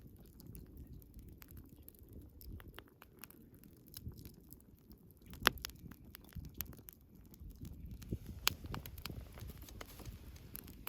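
Wood bonfire burning, with irregular crackles and sharp pops over a low rumble of the flames; the loudest pop comes about five and a half seconds in.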